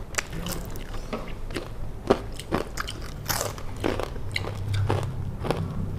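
Two people biting and chewing crunchy fried street snacks close to the microphone: irregular, sharp crunches.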